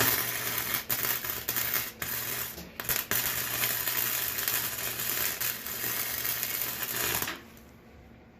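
Electric arc welder crackling as a weld is laid down, a steady sputtering hiss with short breaks about one, two and three seconds in, over a low electrical hum; it stops about a second before the end.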